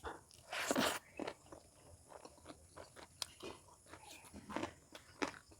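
Close-miked crunching and chewing of crunchy food, a loud crunch just under a second in, then a run of short crackly chews with two stronger crunches near the end.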